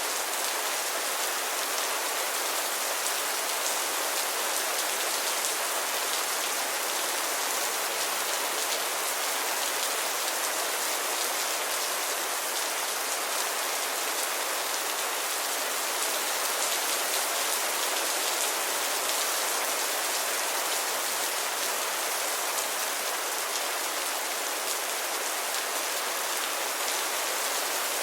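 Steady rainfall, a dense even hiss of many small drops pattering on a surface, with no thunder or other events.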